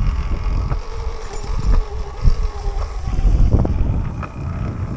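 Sur-Ron electric dirt bike being ridden over rough trail: a faint motor whine under wind buffeting the microphone, with a low rumble and uneven knocks from the bike over bumpy ground.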